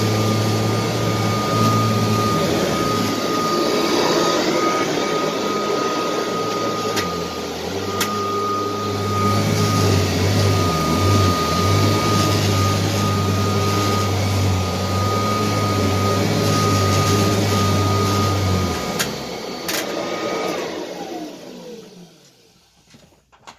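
Upright vacuum cleaner running steadily with a high motor whine. About twenty seconds in it is switched off and the motor winds down to near silence.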